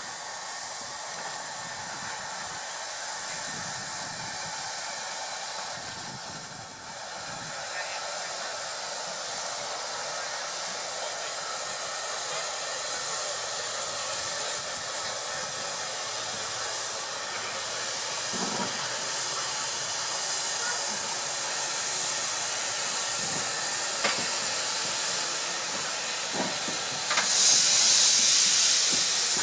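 Steam hissing steadily from the Avonside 1764 industrial steam locomotive, with a few metallic knocks. Near the end a much louder burst of steam hisses for about two seconds.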